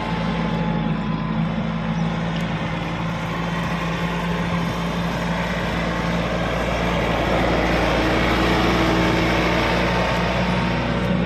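Eicher 280 4WD compact tractor's diesel engine running steadily.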